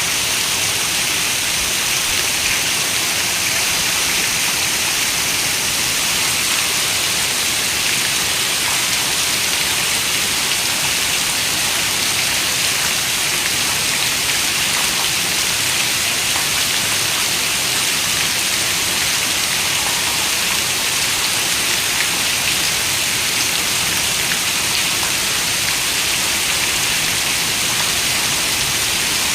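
Steady rain falling, an even hiss of many fine drops with no thunder or other events.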